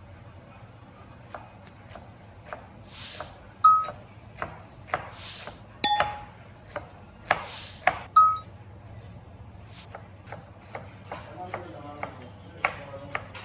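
Kitchen food preparation: irregular knocks of a knife on a cutting board, three ringing metallic clinks of utensils, and three short hissing swishes.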